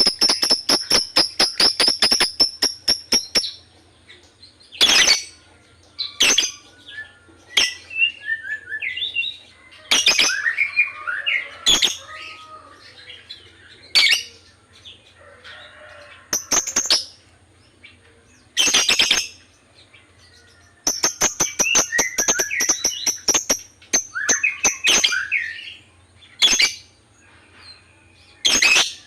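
Lovebirds chirping: a fast, evenly spaced run of high chirps for about the first three and a half seconds, then scattered loud, sharp single calls with softer twittering between them.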